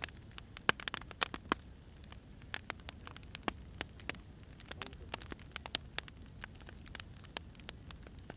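Firewood burning: irregular sharp pops and snaps, several a second, over a low steady rumble of the fire.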